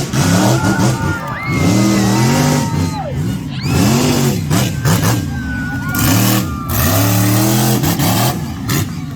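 Monster truck engine revving hard, its pitch climbing and dropping over and over, with a high whine riding above it.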